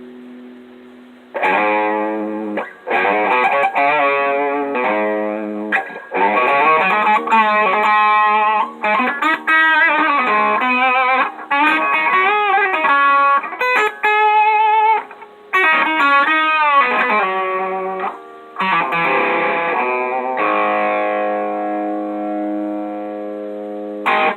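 Electric guitar played through an Electro-Harmonix Screaming Bird treble booster with the boost knob at about three o'clock: a run of chords and single notes with string bends and vibrato, ending in a chord left ringing for about four seconds.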